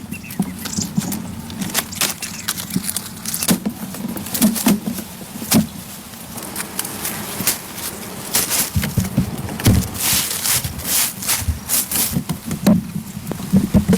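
Irregular clicks and knocks with some rustling, a busier cluster about nine to twelve seconds in, the kind of noise made by handling and working materials by hand.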